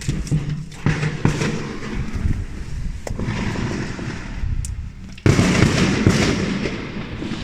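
Fireworks going off: a quick run of sharp cracks and pops over a continuous low rumble of bangs, then a sudden much louder blast about five seconds in that slowly dies away.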